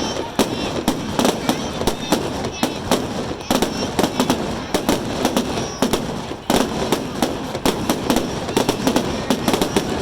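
A fireworks display going off in a dense, rapid barrage of bangs and crackles, several bursts a second with no break.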